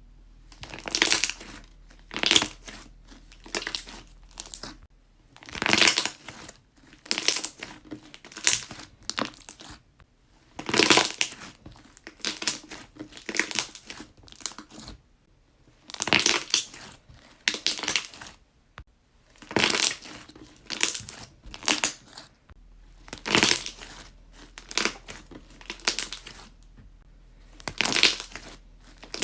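Slime being pressed and squeezed, the air bubbles trapped in it popping in bursts of rapid pops, about one burst every second or so, with a few short pauses between them.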